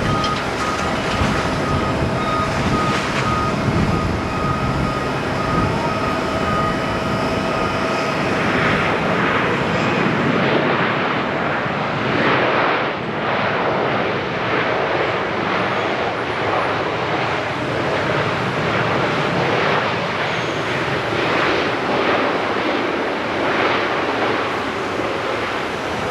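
Jet airliner engines running loud and steady, with a high engine whine that fades out about a third of the way in.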